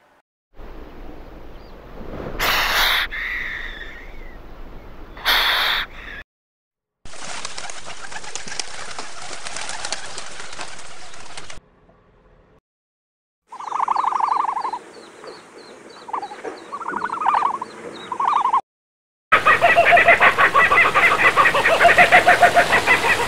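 A run of separate animal-sound clips. First come two loud noisy bursts in the first few seconds. Then a dove coos several times. Near the end a kingfisher gives a loud call, repeated rapidly.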